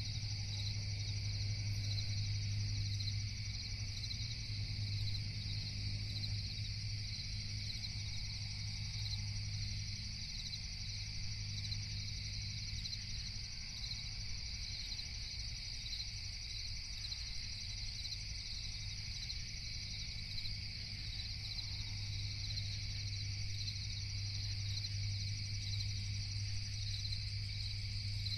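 Night insect chorus: crickets chirping steadily in a dense, high, unbroken trill, over a low steady drone.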